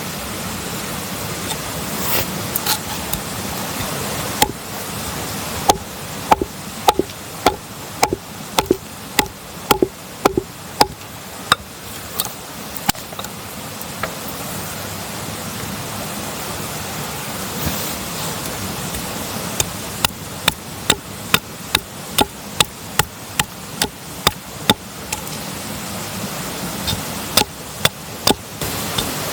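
Repeated sharp blows of a hand tool, about two a second, in two runs separated by a pause of several seconds, over a steady rushing background.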